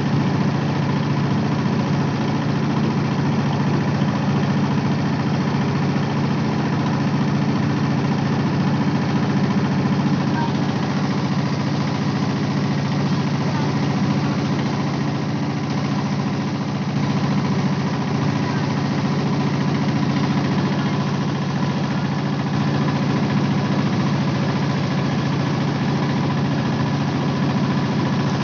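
Boat engine running steadily at an even pitch, with the hiss of water and wind around it.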